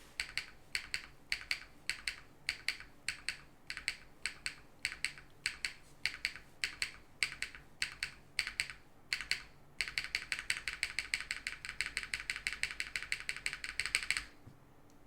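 Spacebar of a Minerva LX custom mechanical keyboard pressed again and again, giving a steady run of sharp clacks, about three a second. About ten seconds in it is tapped rapidly, many clacks a second, for about four seconds, then stops.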